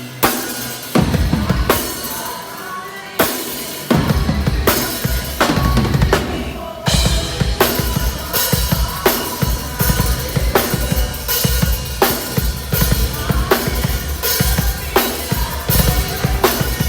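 Heavy metal band playing live, loud, with heavy drumming: rapid bass-drum strokes under hard snare and cymbal hits.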